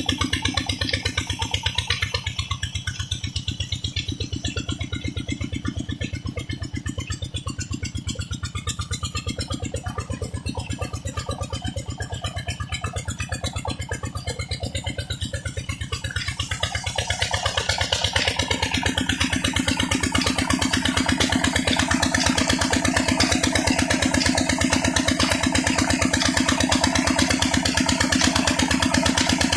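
25 hp Petter diesel engine running steadily while driving a tubewell pump, a fast even beat of firing strokes. It grows louder and brighter about two-thirds of the way through.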